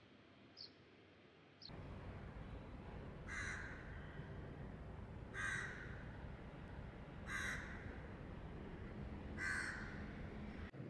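A bird calling four times, short calls about two seconds apart, over a steady outdoor background noise; faint high chirps come before the background rises near the start.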